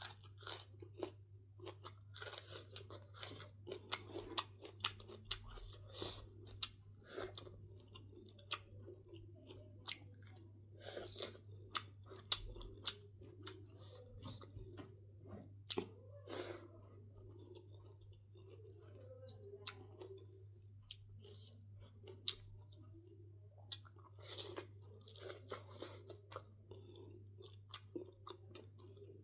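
A person chewing food close to the microphone, with irregular wet mouth clicks and crunches, over a low steady hum.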